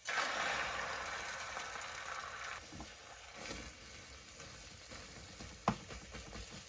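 Food sizzling in a hot frying pan: a hiss that starts suddenly and slowly dies down, with a single sharp tick near the end.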